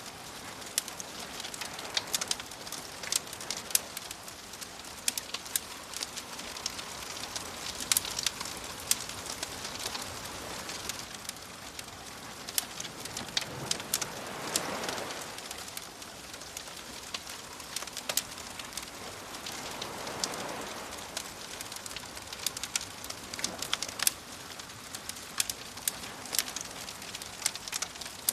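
Wood fire crackling and popping with sharp snaps throughout, over the soft hiss of small waves washing in. Wave swells rise and fall about halfway through and again about two-thirds of the way through.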